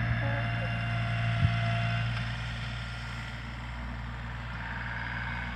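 A vehicle engine running steadily, with a sharp click about a second and a half in.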